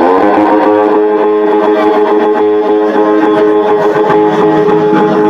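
Loud guitar music that comes in suddenly: a sustained electric guitar chord with notes held steady.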